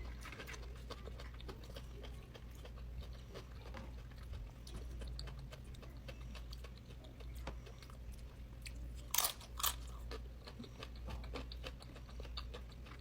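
Close-up chewing of food, with frequent small crunches and wet mouth clicks; two louder crunches about nine seconds in. A low steady hum runs underneath.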